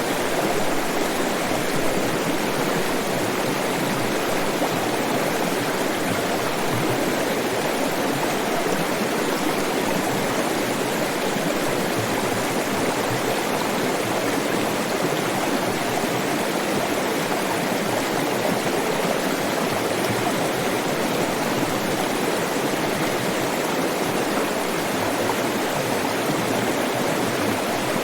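Flowing stream water running over its bed: a steady, even rush with no breaks.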